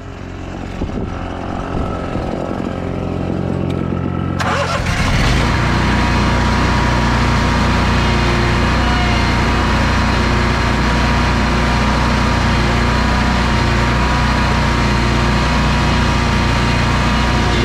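Small engine of a large walk-behind leaf blower running and rising in level, then about four seconds in it throttles up and a loud rush of blown air joins in, running steadily after that.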